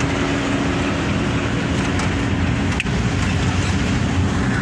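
Vehicle driving over a potholed road: steady engine drone mixed with tyre and road noise, with one sharp knock a little past halfway through.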